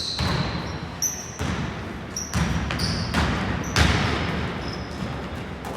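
Basketball game on an indoor court: a basketball bouncing on the hardwood and players running, with repeated thuds and several short, high shoe squeaks on the floor.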